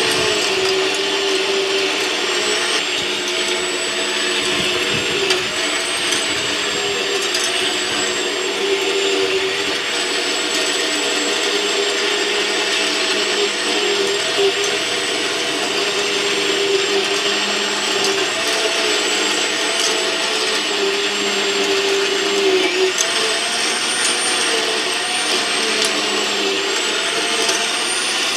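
Greenworks 8-amp corded electric cultivator running and tilling, its motor giving a steady whine whose pitch dips and recovers now and then.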